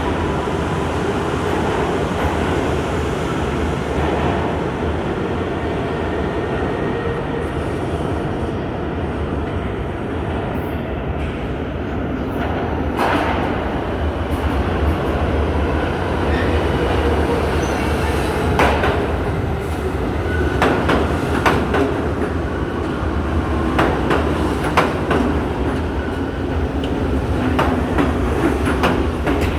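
New York City subway train running with a steady, loud rumble. In the second half the wheels click sharply over the rail joints.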